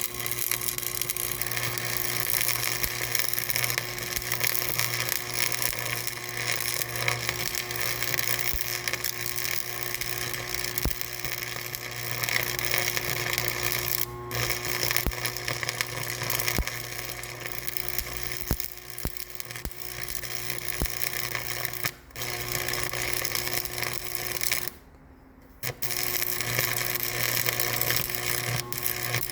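Machinery running steadily with a constant hum under dense mechanical noise; the sound drops out briefly twice, for about a second around three quarters of the way through.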